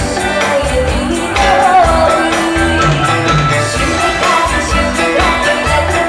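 A singer performing a song over a musical accompaniment with a steady beat.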